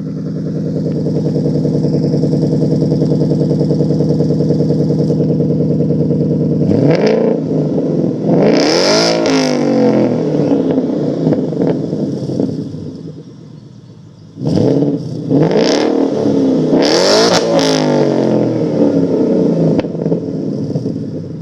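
Muffler-deleted exhaust of a 2014 Ford Mustang GT's 5.0 L V8, with straight 2.5-inch pipes in place of the mufflers. It idles steadily for several seconds, then is revved up and back down in two bursts, about a third of the way in and again past the halfway mark.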